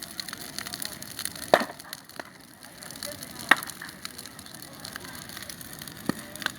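Bonfire crackling steadily, with four sharp pops of burning wood; the loudest come about a second and a half and three and a half seconds in.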